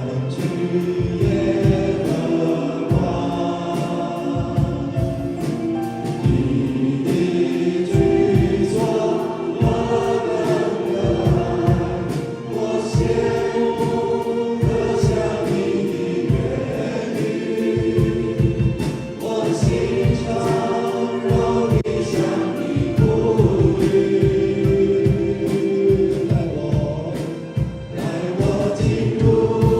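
Worship team and congregation singing a Chinese worship song together over a worship band with a steady beat.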